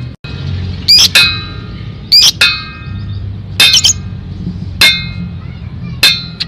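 Metal cooking pot struck repeatedly: sharp clangs that ring on briefly, at irregular spacing and often in quick pairs, played as a lure sound to set lovebirds chattering.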